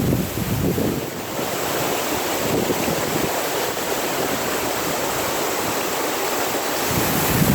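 Water of small waterfalls rushing steadily into pools, an even hiss, with wind buffeting the microphone in the first second and again near the end.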